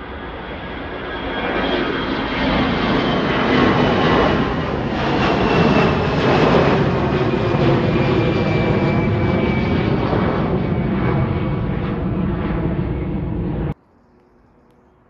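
Departing airliner's engines at takeoff power passing by: a loud rushing rumble with a thin high whine that slowly falls in pitch, swelling to a peak midway. The sound cuts off abruptly near the end, leaving a faint hum.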